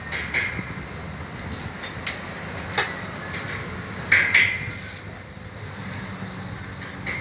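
MIG welder striking short, sputtering arcs: a few sharp cracks scattered over a steady low hum, the arc not holding for long.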